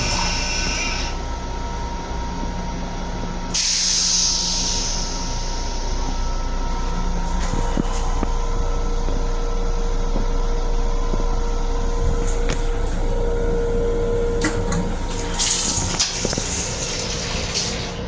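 Running noise inside an M7 electric railcar's restroom: a steady rumble and hum, with a steady whine partway through. A brief hiss comes about four seconds in and again near the end.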